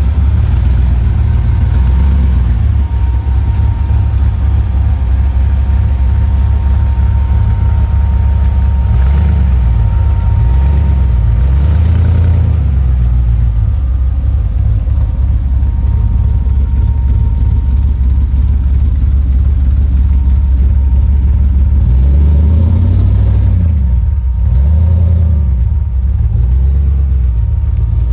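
Jeep Comanche pickup's engine running while driving off-road, loud and low, its pitch rising and falling a few times as the throttle is worked, about ten seconds in and again near the end.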